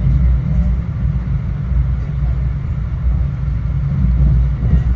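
Metro-North commuter train running, heard from inside the passenger car: a steady low rumble of wheels and motors on the rails.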